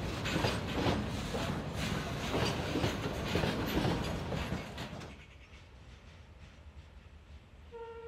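Covered goods wagons of a diesel-hauled freight train rolling past, their wheels clicking rapidly over the rails; about five seconds in, the sound drops to a faint distant rumble. Near the end a train horn sounds one short note.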